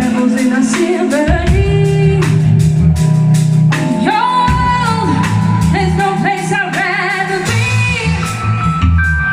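A live band playing a song, with a woman singing lead over bass and drums. Some of her held notes waver with vibrato.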